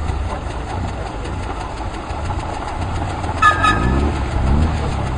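Boat engine running steadily with a low rumble. About three and a half seconds in there is a short high whistle-like tone, followed by a brief sound rising in pitch.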